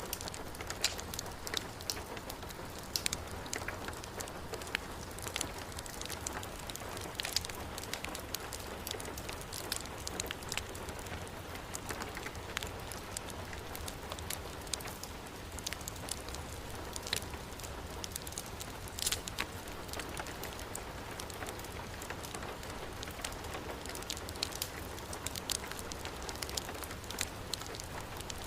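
Heavy rain together with a crackling fireplace fire: a steady hiss with frequent short, sharp crackles throughout.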